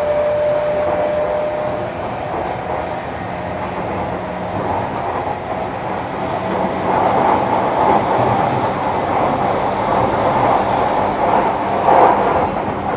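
Running noise inside the motor car of a JR Kyushu 305 series electric train: wheels on the rails with a steady whine from the traction motors and VVVF inverter that fades out about two seconds in. The running noise grows louder in the second half.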